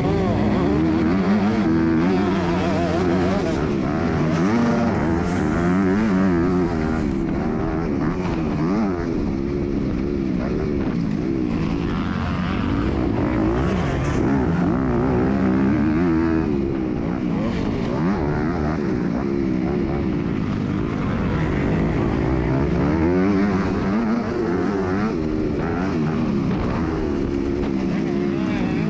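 MX2 motocross bike engine being ridden hard, its revs rising and falling over and over as the throttle is opened and closed through the track's corners and jumps, heard from an onboard camera.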